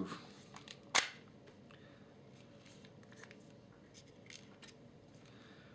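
Handling clicks from a plastic-bodied airsoft pistol: one sharp click about a second in, then a few faint small clicks.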